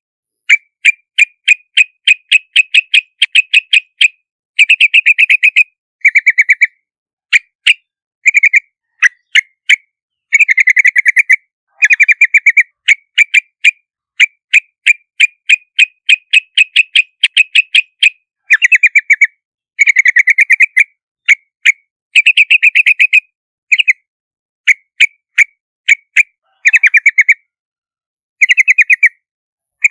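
Yellow-vented bulbul calling: quick runs of short chirpy notes, several a second, in bursts broken by brief pauses.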